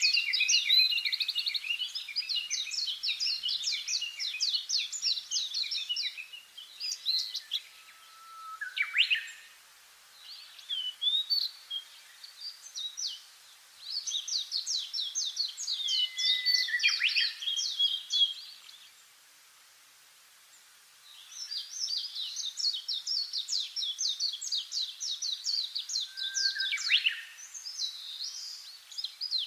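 Songbirds singing in three long bouts of rapid, high chattering notes, each lasting several seconds, with scattered single calls between them and a brief lull about two-thirds of the way through.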